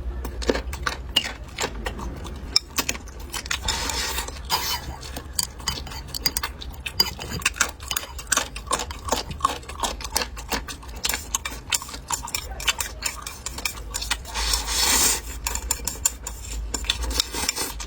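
Eating utensils clicking and clinking against bowls and plates during a meal, in many short irregular taps. There is a brief rustling hiss about four seconds in and a louder one about fifteen seconds in.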